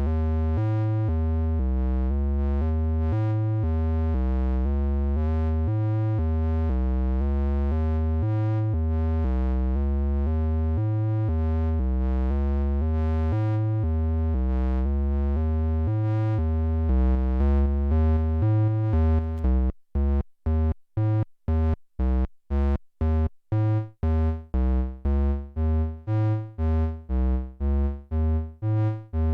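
Synthesizer playing a repeating, bass-heavy sequence of pitched notes. About two-thirds of the way through, the notes change from joined-up to short, separated stabs, about two or three a second with silence between them. Near the end the stabs ring out longer before the next one.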